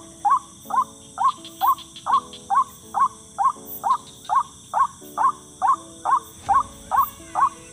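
White-breasted waterhen (ruak-ruak) call: a fast, very even string of short rising notes, about two a second, repeated without a break. Faint held low tones that shift in pitch sit underneath.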